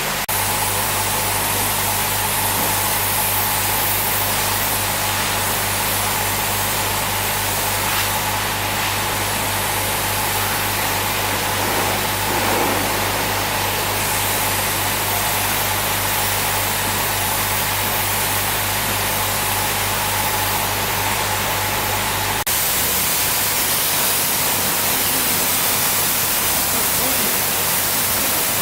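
A steady machine running with a strong hiss and a low hum, changing abruptly about 22 seconds in to a plainer hiss.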